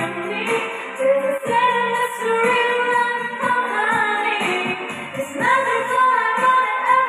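A song with a sung melody over instrumental accompaniment and a steady beat.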